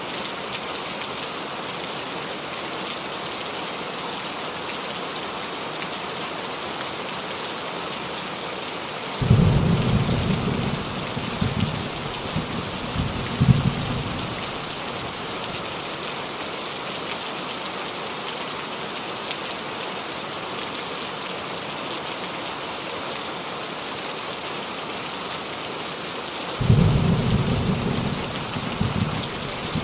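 Steady rain falling on a roof, with thunder rumbling twice: a rumble breaks in suddenly about a third of the way in and lasts several seconds, and another begins near the end.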